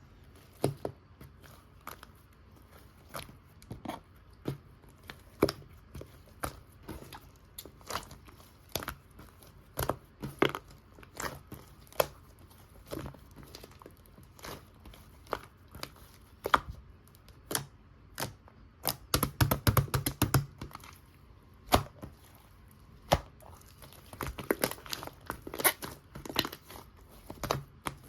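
Strawberry-jam slime being pressed and pulled by hand, giving a string of sticky clicks and pops, with dense crackling runs about two-thirds of the way through and again near the end.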